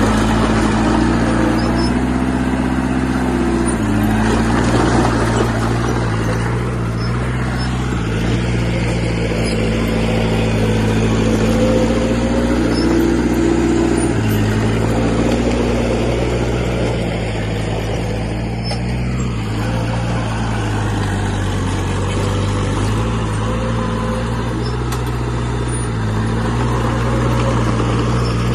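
Heavy diesel engine of earthmoving machinery running under load, its pitch shifting up and down every few seconds as the load changes.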